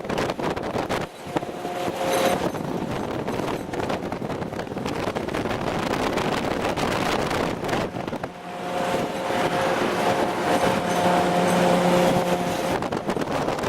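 Convoy vehicle driving, a loud steady roar of engine, tyres and wind. A steady whining tone comes in briefly about two seconds in and again for about four seconds past the middle.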